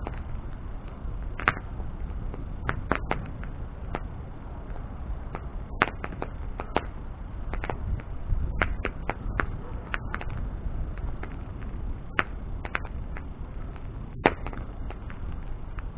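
Wood bonfire burning: a steady low rush of flame with irregular crackles and sharp pops from the burning wood, a few louder snaps among them.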